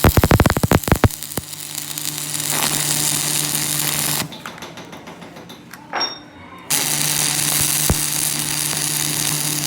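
Electric arc welding laying a build-up layer of weld on a broken pinion: a steady crackling hiss over a low mains hum, in two long runs with a pause of about two seconds between them. A rapid run of sharp clicks comes in the first second.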